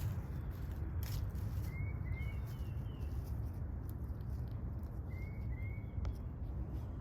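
Short rising bird chirps, two pairs about three seconds apart with fainter ones between, over a steady low rumble and a few sharp clicks.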